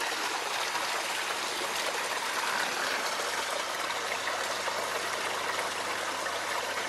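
Small stream rushing over rocks in a little waterfall: a steady, even sound of running water that does not change. The stream is running low, its level having dropped a lot.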